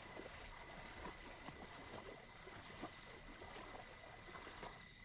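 Frogs and insects calling in a night swamp. A steady high trill runs on, a higher trill comes and goes every second or so, and short croaks and clicks are scattered underneath, all faint.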